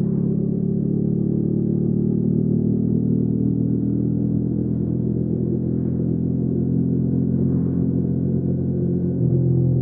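Hyosung GV300S Aquila's 300 cc V-twin engine running steadily, a low even drone. It gets a little louder near the end as the engine note shifts.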